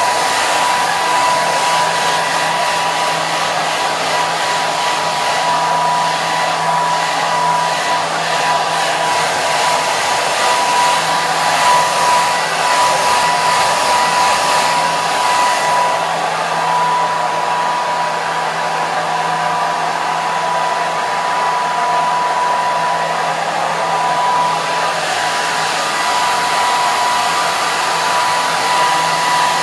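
Hair dryer running continuously: a steady rush of airflow with a constant high motor whine.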